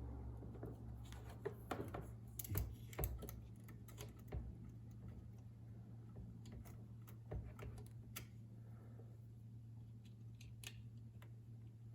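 Light, irregular clicks and taps of small hard objects being handled, more frequent in the first few seconds, over a steady low hum.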